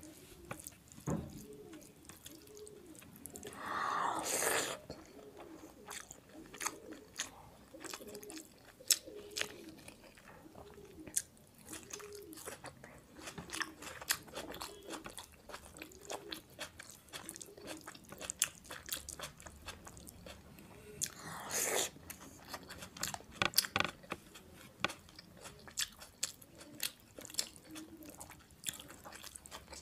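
Close-miked chewing of a mouthful of rice and mutton keema: a steady jaw rhythm about once a second with many small wet mouth clicks. Two louder rushing noises stand out, a few seconds in and again about two-thirds through.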